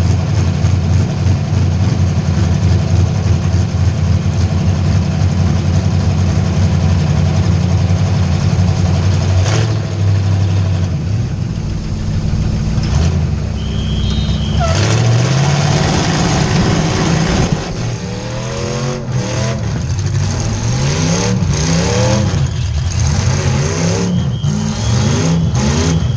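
Demolition derby car's V8 engine heard from inside the cab. It runs at a steady pitch for the first half, then revs up and down over and over, with some knocks in the last several seconds.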